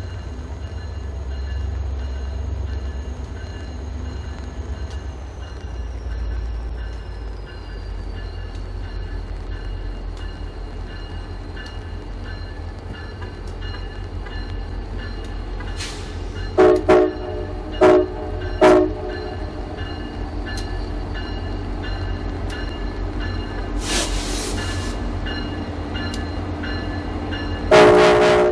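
Diesel locomotives of a passenger train, F40PH units, rumbling steadily at low pitch, with a faint high whine that falls in pitch about five seconds in. About seventeen seconds in, the locomotive horn sounds three short blasts. A brief hiss follows around twenty-four seconds, and the horn sounds again near the end.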